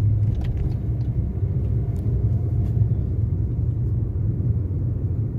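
Steady low rumble of road and engine noise heard inside a moving car's cabin, with a few faint light ticks.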